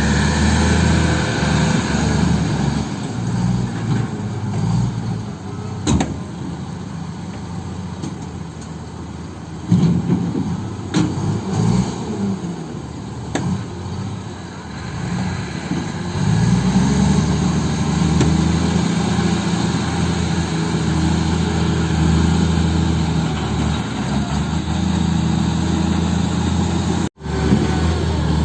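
Heavy diesel engines running, their speed rising and falling at times, with a few sharp knocks. The sound cuts out briefly near the end.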